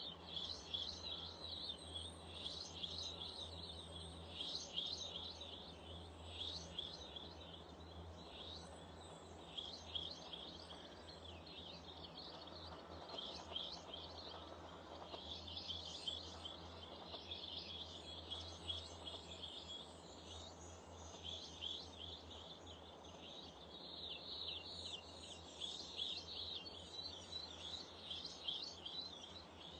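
Small garden birds chirping and singing continuously, with many short, overlapping calls and quick trills, over a low steady hum.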